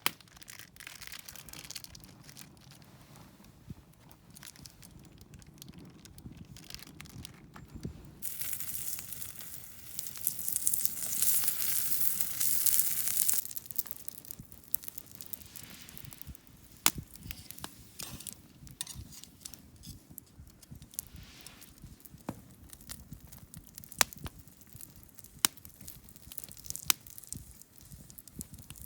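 Campfire crackling, with sharp pops every second or two in the second half. In the middle there is a loud hissing stretch of about five seconds that starts and stops abruptly.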